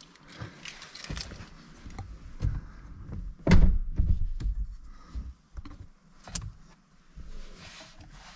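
Clicks, knocks and rustling of someone moving about inside a car cabin, with one heavy thump about three and a half seconds in. The engine is not running yet.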